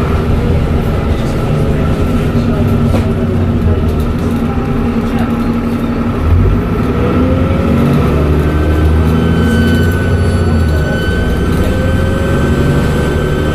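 Dennis Trident double-decker bus engine running under way through its Voith automatic gearbox, the engine note shifting in pitch, with a thump about halfway through. From about two-thirds in, a thin steady high-pitched turbo whistle sounds over the engine.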